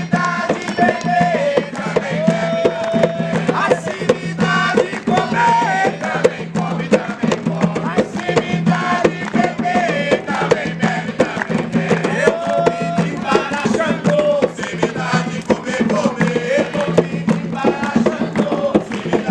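Singing over dense, fast percussion of drums and rattles, a sung chant in a steady rhythm with long held notes in the voice.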